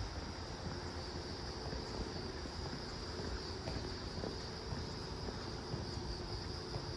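Steady chorus of night insects, crickets, a constant high-pitched trill over a low rumble.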